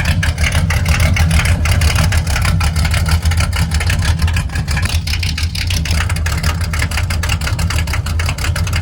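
1972 Ford F-250's engine running steadily through its homemade budget NASCAR-style exhaust, a loud, dense rumble of exhaust pulses.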